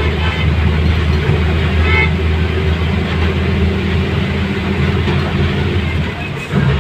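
Steady road-vehicle rumble with traffic noise, and a short horn toot about two seconds in.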